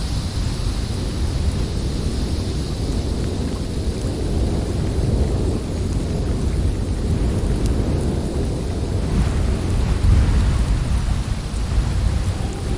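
Snowstorm wind blowing steadily, a dense low rushing rumble that swells about ten seconds in.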